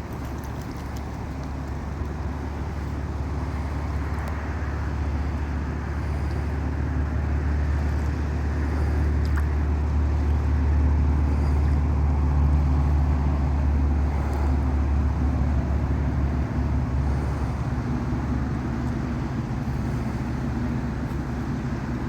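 Vehicle engine and road noise heard from inside the cab while driving: a steady low drone that swells through the middle and eases again near the end.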